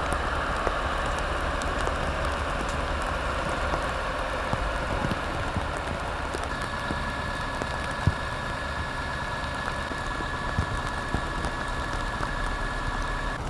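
Heavy recovery truck running steadily, a hissing mechanical noise over a low rumble, with a thin steady whine joining about halfway in and a few light knocks.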